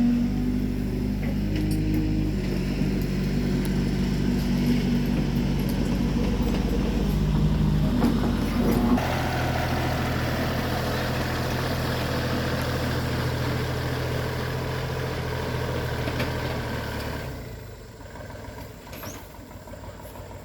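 Engine of a heavy work machine running steadily. Its note changes abruptly about nine seconds in, and the sound drops away sharply near the end.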